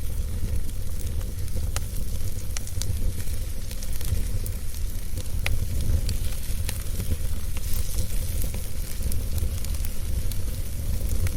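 Wood fire crackling, with irregular sharp pops and snaps over a steady hiss and a low rumble.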